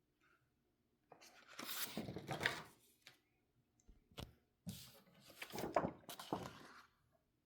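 Rustling and handling noise close to the microphone, like paper or material being moved, in two stretches: one about a second in and one from about halfway through, with a few short clicks between them.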